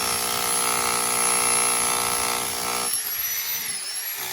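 Electric jackhammer hammering steadily, cutting off about three seconds in.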